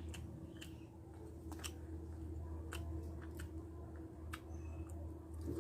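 Close-miked chewing of a meal of rice and dried fish: irregular sharp wet mouth clicks and smacks, roughly two a second, over a steady low hum.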